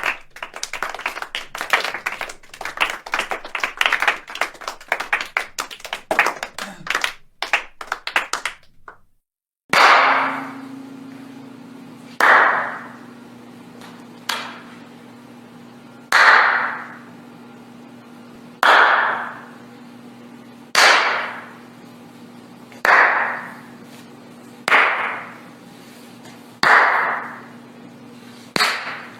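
Applause from a small crowd, a dense patter of many hands clapping, that stops after about nine seconds. After a brief gap comes a slow clap: single sharp claps about every two seconds, each ringing away in an echo, over a steady low hum.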